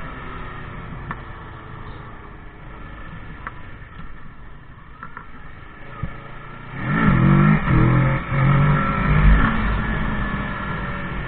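Motorcycle engine running steadily, then about two-thirds of the way through it accelerates hard, its pitch rising and the sound growing much louder.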